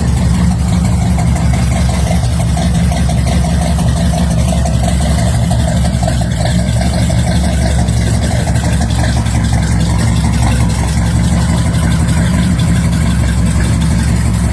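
Chevrolet 409 V8, out of a 1964 Impala, idling steadily with its exhaust note to the fore.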